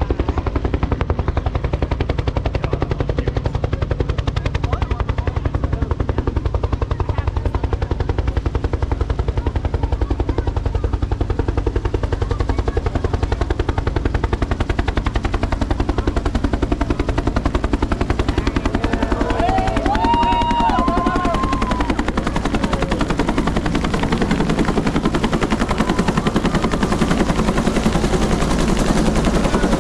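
Helicopter overhead, its rotor blades thumping in a fast, steady rhythm.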